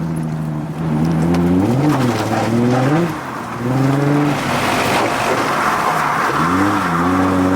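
Car engine revving up and dropping back several times while drifting, with a hiss of sliding tyres in the middle.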